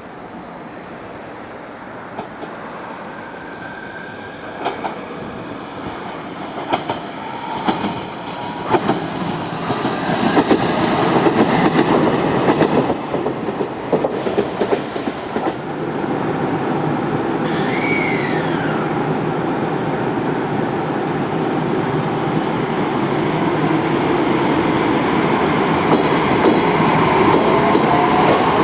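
JR Kyushu 817 series 2000-subseries electric train running, its noise building, with sharp clicks of wheels over rail joints. Near the end a faint motor whine rises in pitch as it gathers speed.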